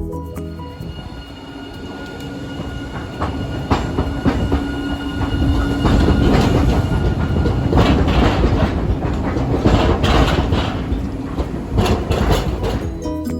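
A Hiroden streetcar runs past on street track. It gets louder over the first few seconds, with a steady motor whine, then its wheels clatter repeatedly over rail joints and points.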